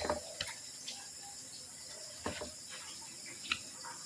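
Quiet kitchen background noise with a few faint, short knocks, about a second apart or more, like utensils being handled.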